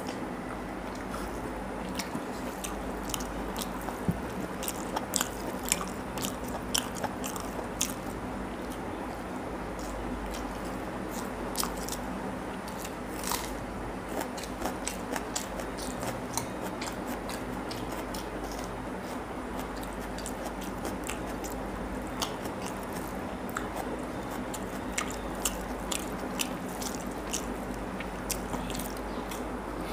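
Close-miked chewing and eating by hand: irregular wet mouth clicks and smacks while chicken curry and rice are chewed, with fingers squishing and mixing the curry-soaked rice on the plate.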